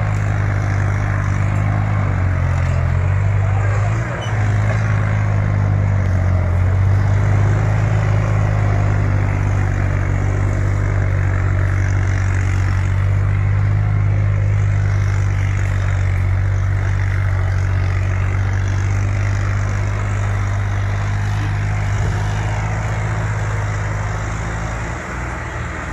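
Tractor diesel engine running loud and steady at constant revs, its pitch shifting briefly a few seconds in and easing slightly near the end.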